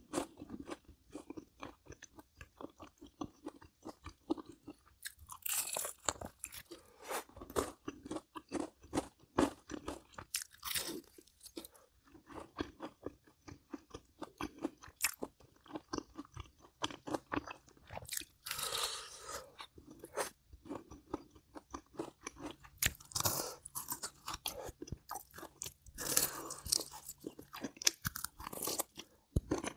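A person chewing and crunching crisp food close to the microphone: a steady run of crunches, with several louder bites spread through.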